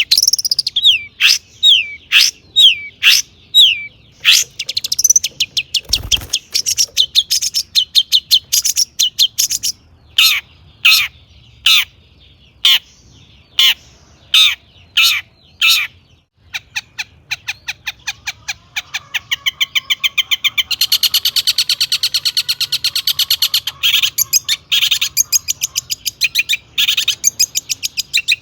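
Long-tailed shrike singing a loud, varied song full of mimicked phrases: sharp falling chirps and separate short notes at first, then, a little past halfway, a fast unbroken chatter of rapid notes.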